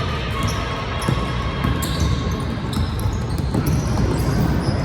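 Basketball game noise in a gym: the ball bouncing on the court over a steady din of crowd and players, with scattered sharp knocks and squeaks.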